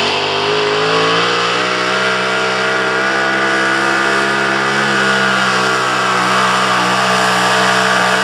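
Super modified pulling truck's engine held at high revs during a pull. Its steady note climbs slightly about half a second in, then holds.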